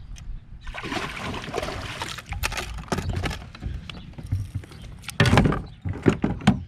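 A bass slipped back into the water from a kayak: a splashing wash for a second or two, then a series of knocks and bumps on the kayak, the loudest a little past five seconds in.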